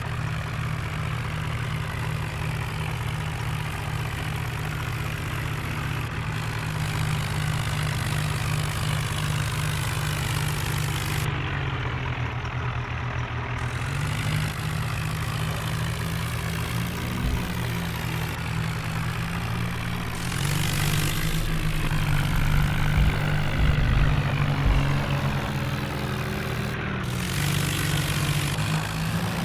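Tractor engine running steadily, its pitch shifting several times and growing louder for a few seconds about two-thirds of the way through.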